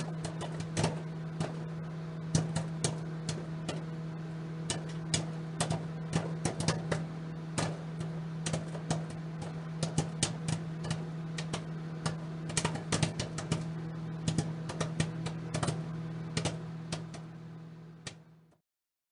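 Popcorn popping in a running microwave oven: a steady low hum with irregular sharp pops. The sound thins out and stops near the end.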